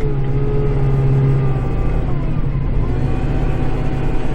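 Kubota tractor's diesel engine running steadily, heard from inside the cab, its pitch sagging briefly about two seconds in and then recovering.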